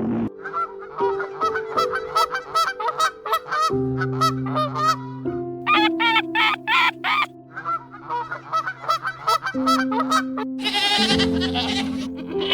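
Rapid series of short honking bird calls, several a second, with a brief pause partway through and a louder, higher call near the end, over soft background music.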